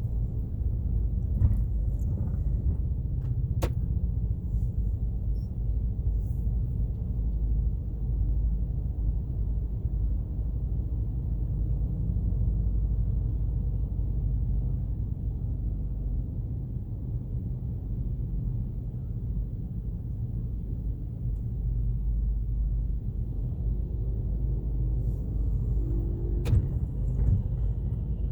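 Steady low rumble of a car being driven: engine and tyre noise. A sharp click comes about four seconds in and another near the end.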